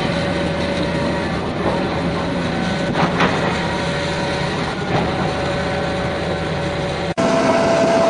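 Heavy vehicle's diesel engine running steadily under load, with the sound changing abruptly about seven seconds in to another engine with a steady higher tone.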